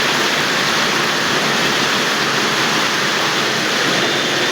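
Torrential rain pouring down in a dense, steady hiss.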